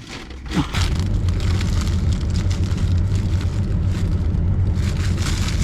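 Steady engine and road rumble inside a moving car's cabin, a low, even drone with a light hiss above it.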